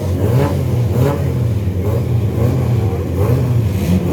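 Several stock car engines running together, their pitch rising and falling as drivers blip the throttles on the grid.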